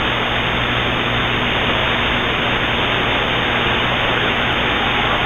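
CB radio receiver giving steady static hiss between transmissions, squelch open.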